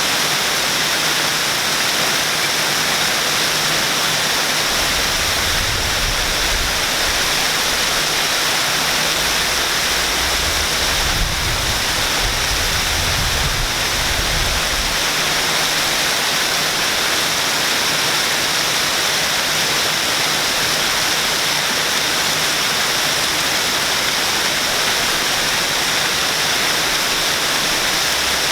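Waterfall: water pouring and splashing in a steady, unbroken rush, brightest in the upper range. A low rumble rises underneath for several seconds in the middle.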